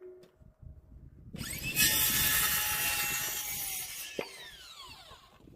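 Electric power saw spinning up with a rising whine, cutting through a wooden board, then winding down with a falling whine near the end.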